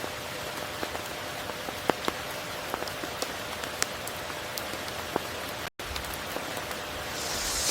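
Steady rain falling, an even hiss with individual drops tapping sharply here and there. The sound cuts out for a split second a little before six seconds in, and a swell of higher hiss rises near the end.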